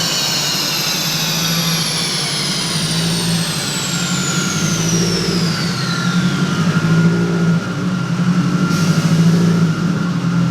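Subaru WRX STI turbocharged engine on a chassis dyno winding down after a pull: a high whine falls steadily in pitch over about six seconds as the rollers and drivetrain slow, over a steady, lumpy low engine note.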